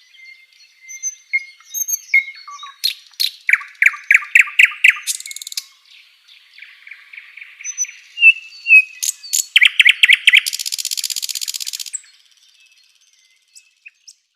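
Sikatan londo flycatcher singing a varied song: thin whistles, quick runs of repeated loud notes, and harsh buzzy phrases. The song stops about twelve seconds in.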